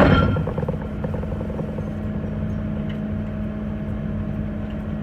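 Engine of a water jet pump, used for jetting pilings into a lake bottom, running steadily at one speed. A loud rushing noise at the start fades out within about half a second.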